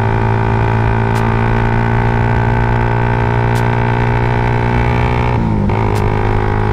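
Suzuki Raider 150 Fi's single-cylinder fuel-injected engine running steadily through a CHA aftermarket exhaust pipe, a loud even exhaust note. A little over five seconds in, the engine speed sags briefly and then recovers.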